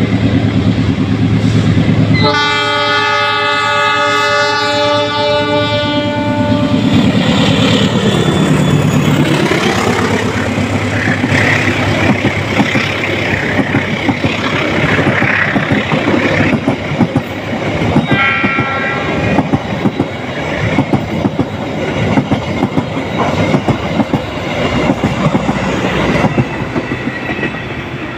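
Diesel-hauled Taksaka passenger train passing close by. The locomotive's horn sounds one long blast of about four seconds, the engine's pitch falls as it goes past, then the coaches' wheels clatter steadily over the track, with a second, shorter horn blast part way through. The train fades near the end.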